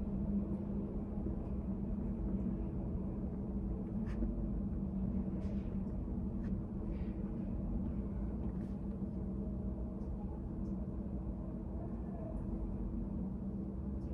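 Study-café room ambience: a steady low hum with a few constant tones, and faint taps and clicks now and then.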